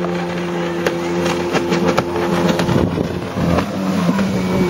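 Boat engine running steadily at speed, with a run of sharp crackles and slaps between about one and three seconds in.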